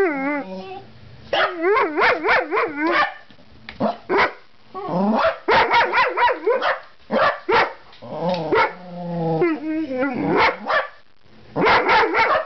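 Two dogs, one a Jack Russell terrier, barking in repeated volleys with short gaps between, mixed with wavering, whining yelps. It is alarm barking at a stunned bird on the step outside.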